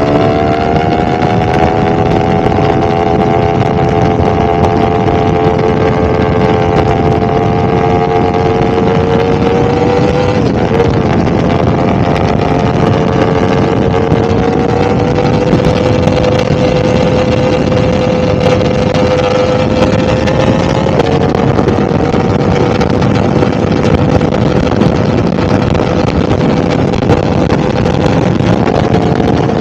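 2022 Yamaha R1's inline-four engine running hard at speed: its pitch climbs over the first couple of seconds, then holds steady with two brief dips, about a third and two thirds of the way through. Heavy wind rush runs under it.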